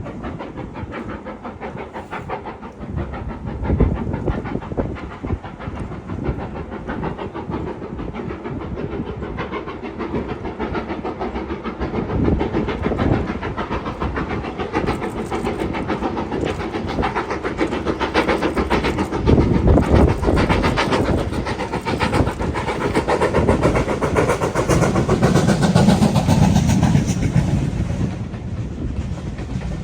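BR Standard Class 5MT 4-6-0 steam locomotive 73082 Camelot running with its train, the rail clatter of the wheels going on throughout. The sound grows louder past the midpoint, is at its loudest about two-thirds of the way in, and eases off near the end.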